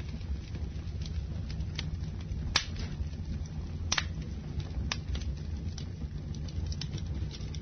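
Campfire burning with a steady low rumble and irregular wood crackles and pops, a sharper pop about two and a half seconds in and another about four seconds in.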